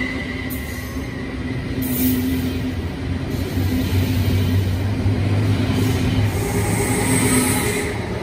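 Double-deck passenger train rolling past the platform: wheels rumbling on the rails with a steady low hum, growing louder after about two seconds.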